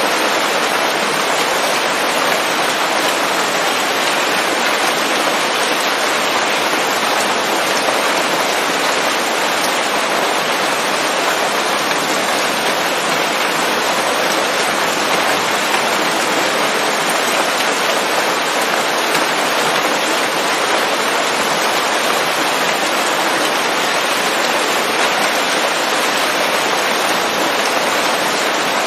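Steady rain falling on forest leaves, a dense, even patter with no thunder.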